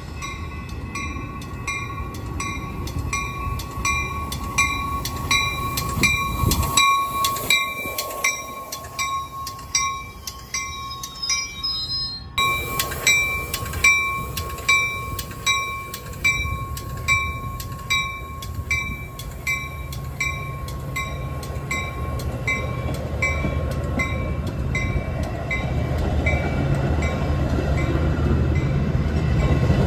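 Railroad grade-crossing bell ringing steadily about twice a second as a Metra diesel commuter train approaches. The train's low rumble grows louder near the end.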